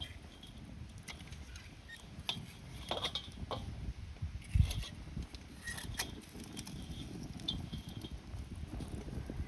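Wood fire burning and crackling: scattered sharp pops and snaps over a low rumble of flames, with a brief, loud low thump about halfway through.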